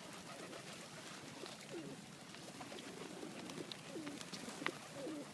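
A flock of birds calling with many soft, low notes that rise and fall, scattered throughout.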